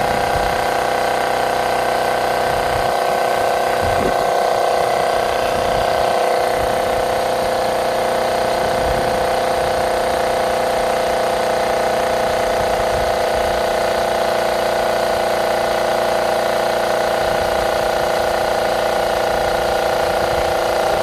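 Cordless portable air compressor running steadily as it pumps up a car tyre, a loud buzzing whine whose pitch sags slightly, cutting off abruptly at the very end, which she puts down to the battery running low.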